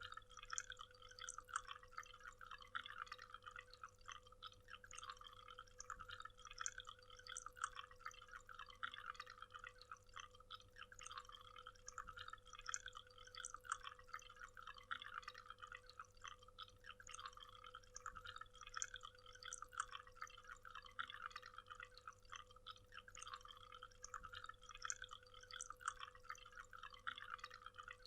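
Faint waterfall: water splashing and pattering in a dense, even stream of small droplet sounds.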